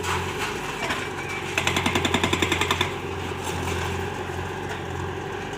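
Heavy machinery engine running steadily. Partway through, a fast mechanical rattle of about eleven knocks a second lasts just over a second.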